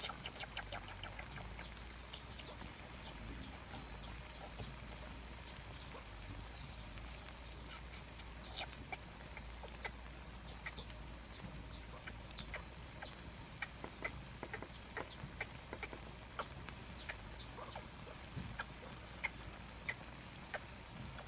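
Steady high-pitched chorus of insects, dipping slightly at times, with scattered faint clicks and ticks.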